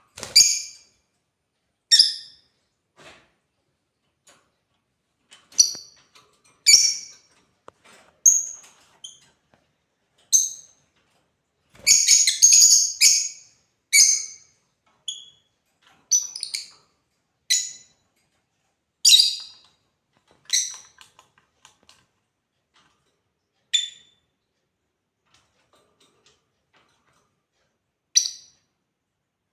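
Lovebirds calling with short, high-pitched chirps, one call every second or so, with a quick run of calls about twelve seconds in, then fewer and further apart toward the end.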